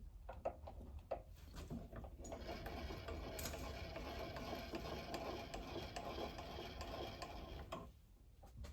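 Milling machine being wound down: a few light clicks and knocks, then a steady mechanical rattling whir from about two seconds in that stops abruptly near the end.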